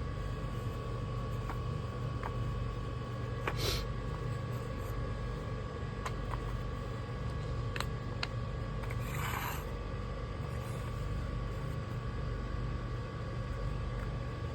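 A vehicle running steadily, heard as a low continuous rumble with a faint steady whine, and a few light clicks.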